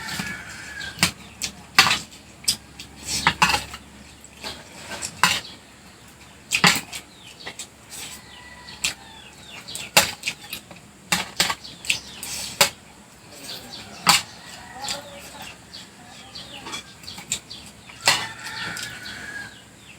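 Cutlery clicking and scraping on a plate, with eating sounds, at irregular moments throughout. A chicken clucks faintly in the background near the start and again near the end.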